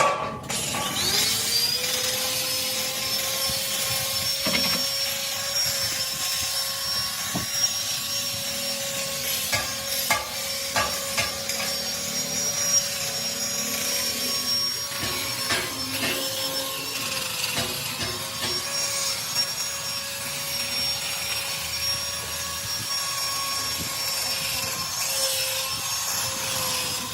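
An electric power tool spins up about a second in and runs at a steady whine while it grinds or brushes against the metal of an old cylinder head, with a rough scraping noise and scattered sharp clicks.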